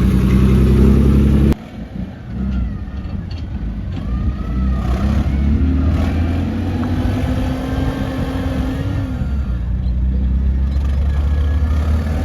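Diesel engines of earthmoving machinery running. The sound cuts off abruptly about a second and a half in, then an engine revs up, holds a higher pitch for a few seconds and settles back.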